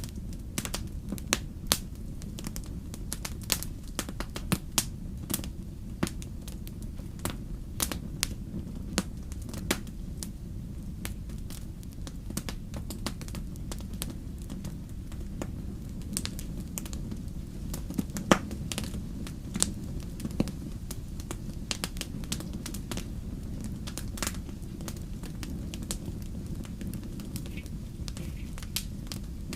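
Wood fire crackling in a fireplace: irregular sharp pops and snaps, a few a second, with one louder pop about 18 seconds in, over a steady low rumble.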